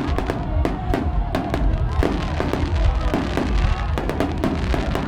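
Fireworks display: a rapid run of shell bursts and crackling bangs over a continuous deep rumble, several bangs a second.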